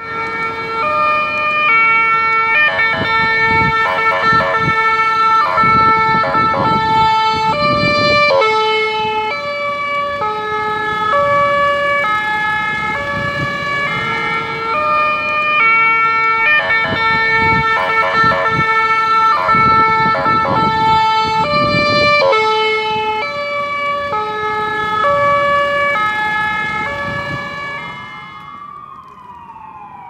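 Ambulance siren sounding a two-tone hi-lo pattern, stepping between a lower and a higher pitch. Near the end it fades and a different siren with a rising and falling wail starts.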